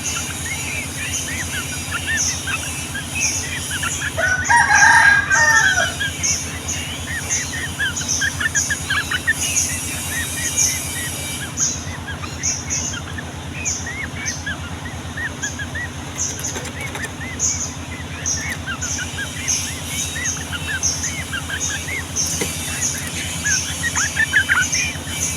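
Yellow-vented bulbuls (trucukan) chattering in long, busy runs of short chirps. A rooster crows once, loudly, about four seconds in. A regular high pulse, about two a second, runs underneath with a steady low hum.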